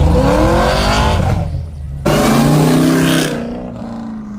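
Car engine revved hard twice: the pitch climbs and falls back, then a second rev comes in abruptly about two seconds in, holds and winds down.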